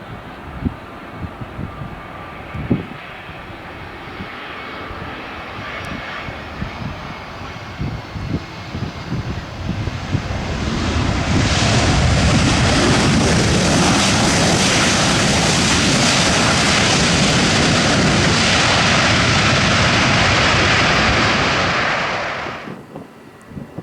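Airbus A321's IAE V2500 turbofan jet engines: first a fainter whine, then from about eleven seconds in a loud, steady jet roar that lasts about eleven seconds and cuts off abruptly near the end.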